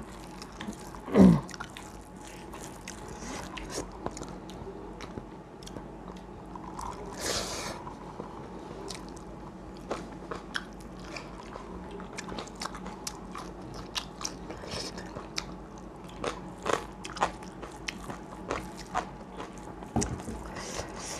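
Close-miked eating: chewing, crunching and mouth clicks as crisp-fried chicken and rice with curry are eaten by hand, in many small sharp crackles. One louder low sound comes about a second in, and a short hiss near the middle.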